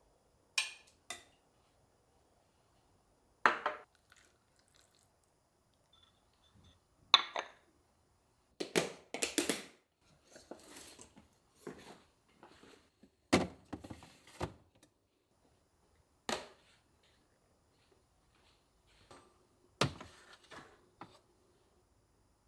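Kitchen handling sounds: a scattered series of sharp clinks and knocks as containers and dishes are picked up and set down, with brief rustling between them.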